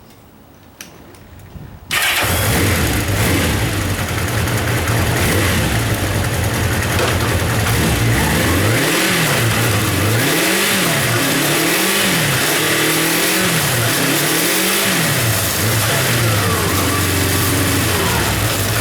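A 1991 Kawasaki Zephyr 750's air-cooled inline-four starts about two seconds in, after a couple of small clicks, and settles into a steady idle. In the middle the throttle is blipped about five times, the revs rising and falling cleanly each time, before it drops back to idle: an engine that runs and revs up freely.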